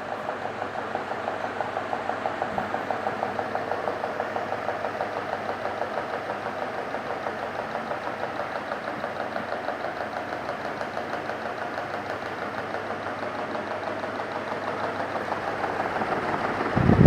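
CEC Deluxe 48-inch straight-blade ceiling fan running, a steady hum with a fast, even pulsing. It grows slightly louder toward the end, where a loud low rumble breaks in.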